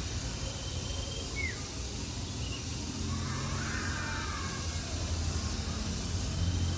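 Outdoor nature ambience: a steady hiss over a low rumble, with a short falling bird call about a second and a half in and a faint thin whistle near the start.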